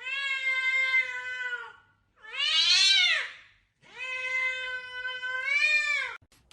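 A cat meowing three times in long drawn-out calls. The middle call is shorter and rises then falls in pitch.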